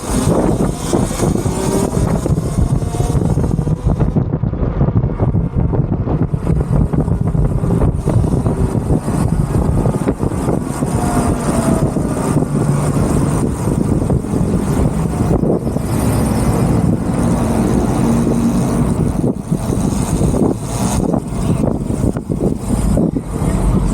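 Wind rushing over the microphone and tyre and road noise as a Talaria Sting MX4 electric dirt bike is ridden. A faint motor whine rises and falls now and then.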